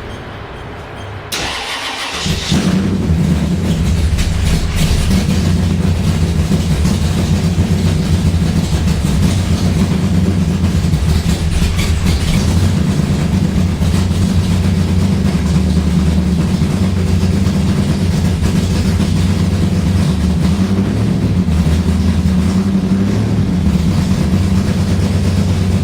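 Car engine on a cold start after sitting a long time: it catches about a second and a half in and settles into a steady idle.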